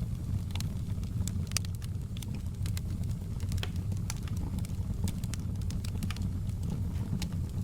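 Wood fire in a fireplace crackling, with many irregular sharp pops and snaps over a steady low rumble of the burning fire.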